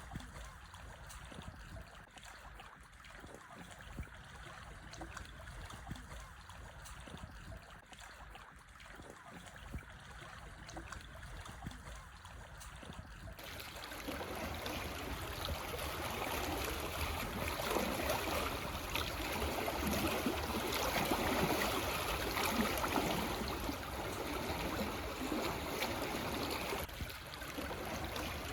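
Small waves lapping and washing over black stones on a shore, a continuous trickling wash of water. About halfway through it suddenly becomes louder and fuller.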